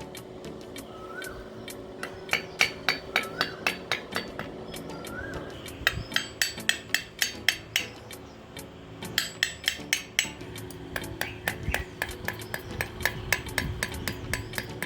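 Rapid light hammer taps in several runs, about four strikes a second, with short pauses between runs.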